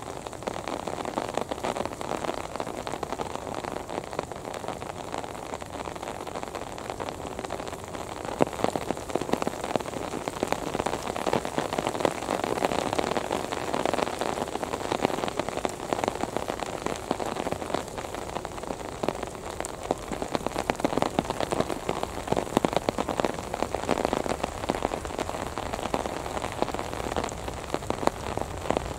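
Steady rain, a dense irregular patter of drops striking close to the microphone.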